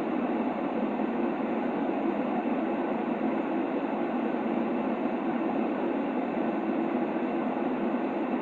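Steady white-noise sleep sound for a baby: an even, unbroken hush weighted toward the low middle, with little treble and no change in level.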